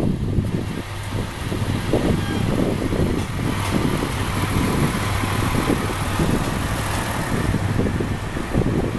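Diesel engine of a 9640 series railcar idling with a steady low hum. A hiss joins in about a third of the way through.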